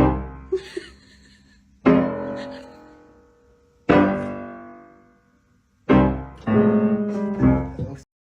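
Piano music: a chord is struck about every two seconds and left to ring and fade, then quicker notes follow near the end before the sound cuts off.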